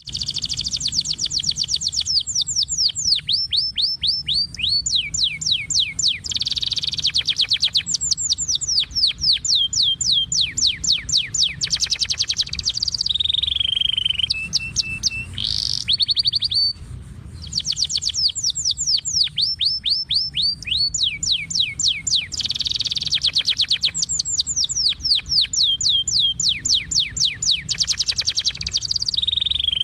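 A songbird singing in fast trills of sharply falling chirps, phrase after phrase, with a brief pause about halfway through. The same sequence of phrases then repeats.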